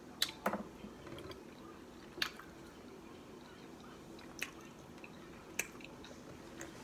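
A person chewing a mouthful of fried burrito: a handful of short, sharp mouth clicks and smacks, a second or two apart, with two close together right at the start as the bite goes in.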